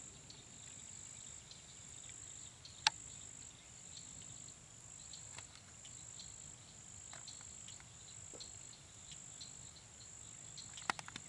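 Steady high-pitched trilling of an insect chorus, going in repeated phrases about a second long. There is one sharp click about three seconds in and a few quick clicks near the end.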